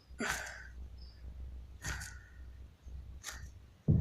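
A person's short breathy exhales, three puffs of breath spaced about a second and a half apart, as of effort.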